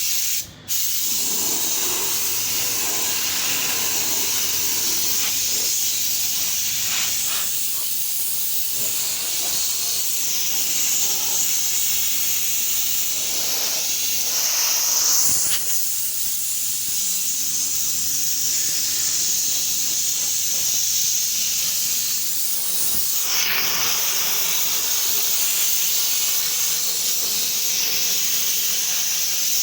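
Steady spray hiss of paint being sprayed onto an engine part, with a brief break about half a second in.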